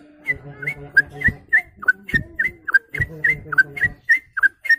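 A man imitating a songbird by mouth whistling, without any device: a rapid, even series of short, high chirps, about three to four a second.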